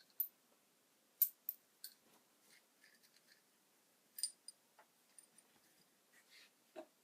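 Scattered sharp clicks and light taps, a few close together a little after the first second and again around four seconds in, with a duller knock near the end: small tools or parts being handled during repair work.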